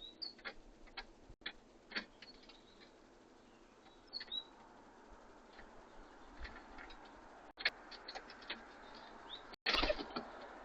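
Birds at a feeder: scattered sharp taps and clicks of pecking at the feeder, with a few brief high chirps, and a louder scuffling burst near the end.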